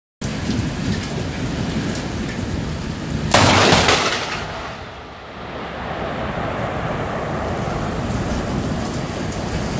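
Steady rain, broken a little over three seconds in by a sudden loud crack of thunder that dies away over about a second.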